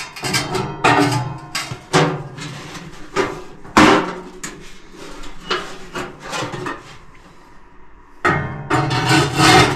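A series of sharp knocks and clatters, as of hard objects being handled and set down, the loudest nearly four seconds in, with a quieter stretch around seven to eight seconds in.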